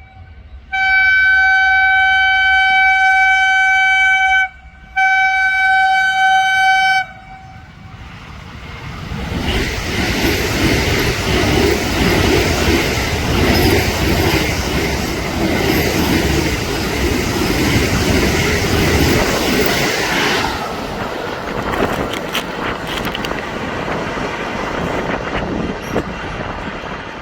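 Indian Railways express train sounding two long horn blasts, then passing at high speed with a loud rumble and clatter of wheels on rail that drops off about two thirds of the way through and fades.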